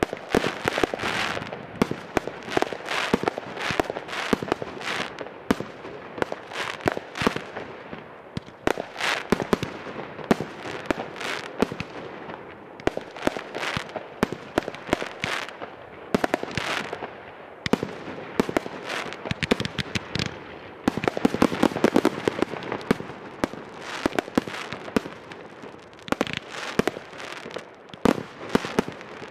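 Fireworks battery cakes firing shot after shot: sharp launch pops and aerial bursts, several a second, with crackling between them. The densest, loudest run of bangs comes about two-thirds of the way through.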